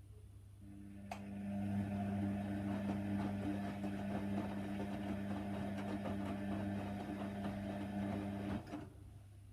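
Hoover Nextra HNWL 7146 washer dryer's motor turning the drum during the wash. A steady motor hum starts about half a second in, with a click as it gets up to speed, then cuts off suddenly near the end.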